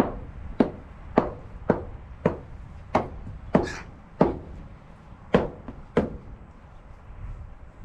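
A hand tool strikes over and over, about ten sharp blows a bit under two a second, with a short pause after about four seconds. The blows stop about six seconds in.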